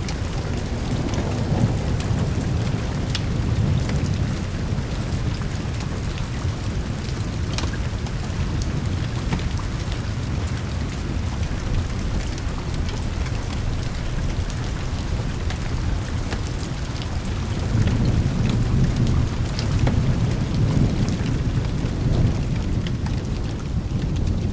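Steady rain with low rolling thunder that swells about a second in and again past the middle, with scattered sharp ticks over the top.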